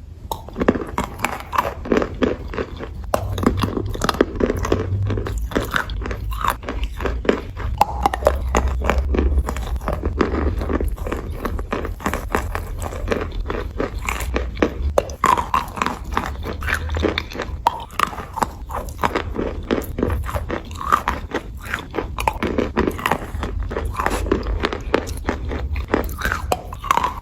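Biting and chewing white clay, a continuous run of crisp, rapid crunches.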